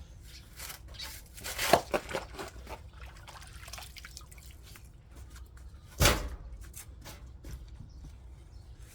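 Water splashing and dripping, with a run of louder splashes about two seconds in and one more about six seconds in.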